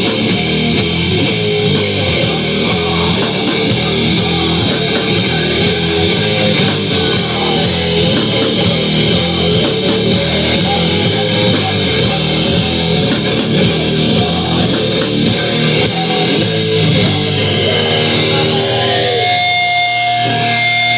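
Live heavy metal band playing loud, with distorted electric guitar and drums. Near the end the dense playing drops away and held guitar notes ring on.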